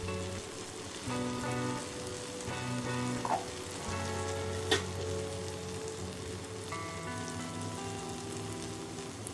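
Tomato wedges and garlic sizzling in olive oil in a frying pan, with background music of held chords over it. A single sharp click about halfway through.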